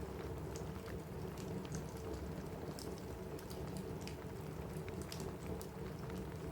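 Steady rain on a cabin roof mixed with a crackling wood fire: an even rushing hiss with irregular sharp pops and ticks scattered through it.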